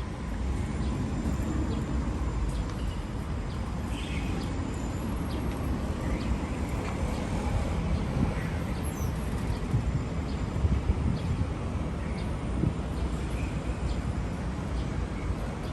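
Steady low background noise with a few faint short chirps scattered through it.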